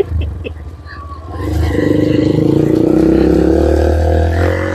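Motorcycle engine revving up about one and a half seconds in and pulling steadily, its pitch climbing slowly, after a few short knocks.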